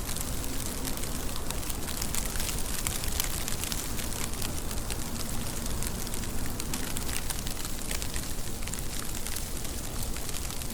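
Steady rain falling, a constant hiss dotted with many small, sharp drop ticks over a low rumble.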